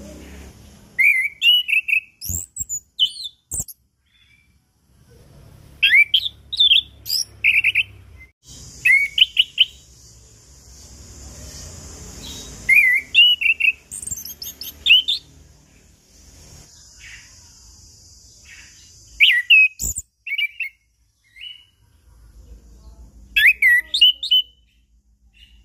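Orange-headed thrush singing: bursts of rapid, high whistled notes that sweep up and down, separated by short pauses. A faint steady hiss comes and goes behind the song, and there are a few sharp clicks.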